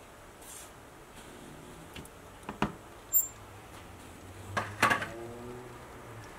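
A few scattered sharp clicks and knocks of handling during a snake feeding: two close together about two and a half seconds in, another a moment later, and a louder cluster near five seconds with a brief creak after it.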